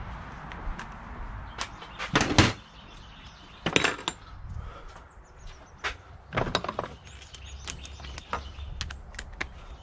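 Hand tools and metal engine parts knocking and rattling as parts are worked loose: three short bursts of clatter about two, four and six and a half seconds in, with lighter scattered clicks between.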